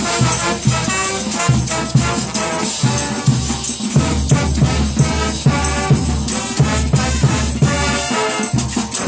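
Brass band playing a cumbia: a horn melody over a steady, even beat.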